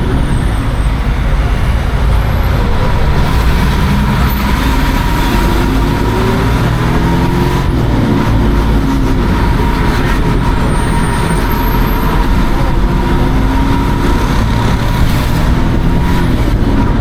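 Hino AK176 city bus's diesel engine running under way, its pitch rising and falling several times as it pulls through the gears, over heavy road rumble and a thin steady whine.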